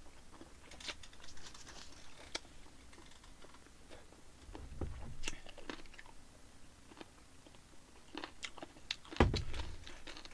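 A person chewing a mouthful of food, with scattered small mouth clicks and smacks. There is a dull thump about nine seconds in.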